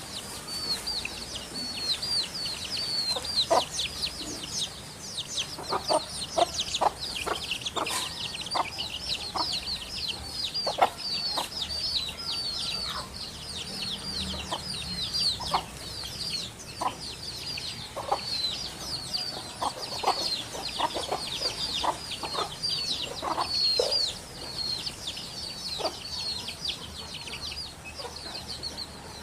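Birds chirping in a dense, continuous chorus: many short, high, falling chirps overlapping several times a second, with shorter lower call notes scattered through.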